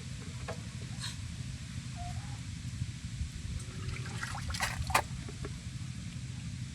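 Small splashes and drips of water with a few sharp clicks, the loudest about five seconds in, over a steady low rumble.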